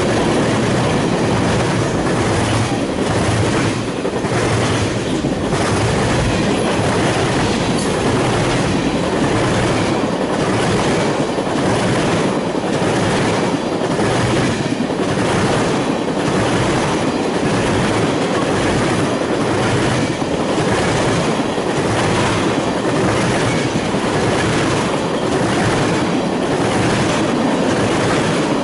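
Freight train of covered hoppers and tank cars rolling past close by: a steady loud rumble of steel wheels on rail, with a regular clickety-clack, about one clack every second or so, as the car wheels pass over the rail joints.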